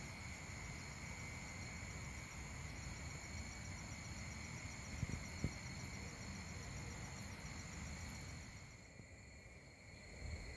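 Insects chirring steadily in several high pitches over a low rumbling background noise, with a couple of faint knocks about five seconds in.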